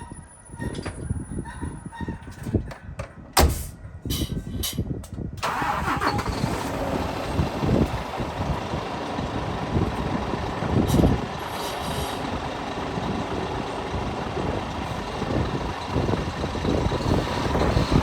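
Scania P 360 truck's diesel engine: a few clicks and knocks, then the engine starts suddenly about five seconds in and keeps running at idle.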